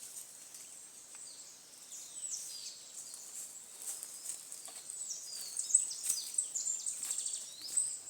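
Forest birds chirping in quick high calls that slide up and down, busier in the second half, over a steady high insect drone.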